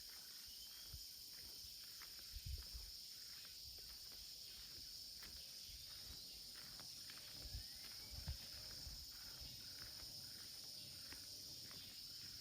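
Steady, high-pitched insect chorus of crickets. A few soft footfalls of someone walking come about two and a half seconds in and again around eight seconds.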